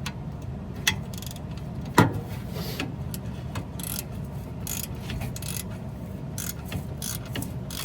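Hand ratchet clicking in short, uneven strokes while a tight, rusty exhaust manifold bolt is worked loose, with one sharp metallic knock about two seconds in.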